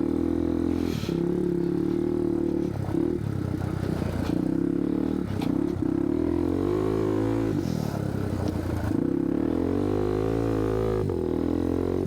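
Yamaha TW200's single-cylinder four-stroke engine running under way, with some clattering. Its pitch rises and falls with the throttle between about six and eleven seconds in.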